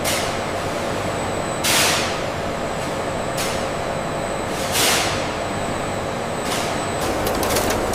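Factory processing machinery running steadily, with four sharp bursts of air hiss, like pneumatic valves venting, each fading away. A rapid clatter starts near the end.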